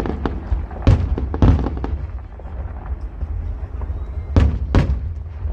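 Fireworks finale: aerial shells bursting in quick succession, with loud bangs about a second in and a strong pair near the end among many smaller crackling pops.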